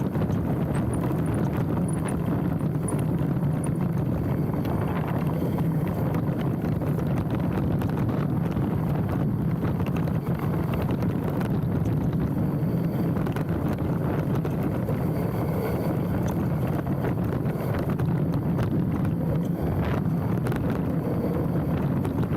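Specialized Stumpjumper mountain bike rolling down a dirt trail: a steady rumble of knobby tyres on the ground with constant small rattles and knocks from the bike, and wind buffeting a handlebar-mounted camera microphone.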